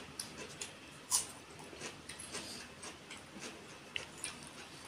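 Mouth sounds of someone eating with his hand: faint chewing and lip smacks, a scatter of wet clicks with a louder one about a second in and a sharp one near four seconds.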